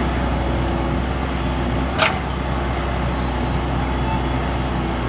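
Heavy diesel engine running steadily, with one sharp metallic knock about two seconds in.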